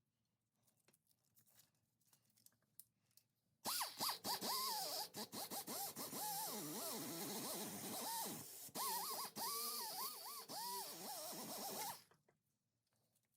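Angle grinder with a sanding pad grinding body filler (Bondo) off a steel quarter panel, starting about four seconds in and stopping near the end. Its whine wavers up and down in pitch as it is worked across the panel. A few faint clicks come before it starts.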